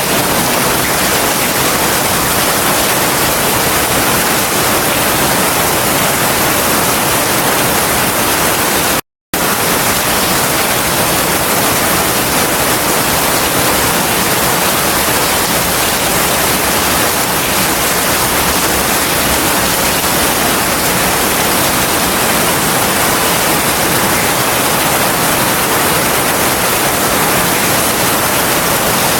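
Heavy rain falling steadily as an even, dense hiss, broken once by a split-second gap of total silence about nine seconds in.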